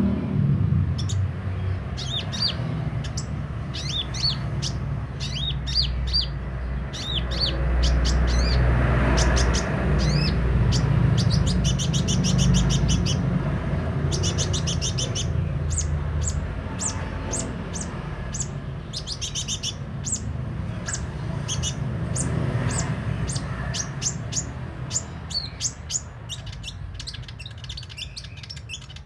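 A sunbird singing continuously: quick high chirps, twittering phrases and fast rattling trills, over a low rumble in the background.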